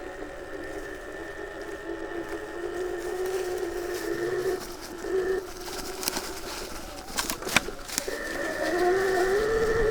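Sur Ron Light Bee electric motorcycle's drive whining as it is ridden: a lower whine wavering up and down in pitch over a steady high whine. A few sharp clicks or knocks come about seven seconds in.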